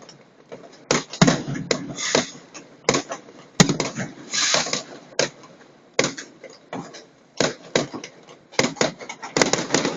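Fireworks going off: a rapid, irregular string of sharp bangs and pops with hissing crackle between them.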